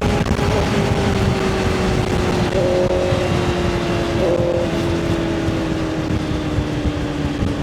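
Motorcycle engine running on the road with wind and road noise; its note sinks slowly and steadily in pitch as the bike eases off.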